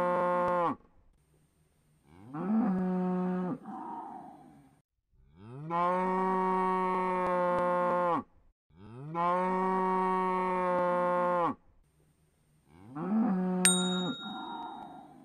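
A cow mooing over and over: long, steady moos of about two and a half seconds each, with gaps of a second or so between. A short ding sounds near the end.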